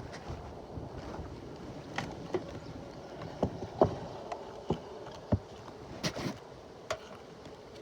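Bee-suit fabric rustling against a phone carried in the suit pocket, with irregular light knocks and clicks from handling.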